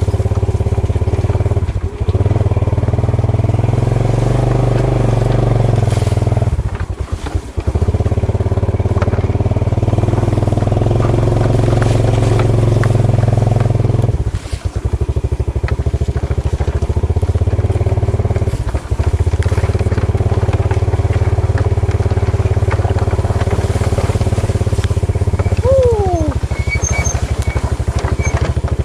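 Motorcycle engine running steadily on a rough dirt track, its sound dropping away briefly a few times. A short falling squeal comes near the end.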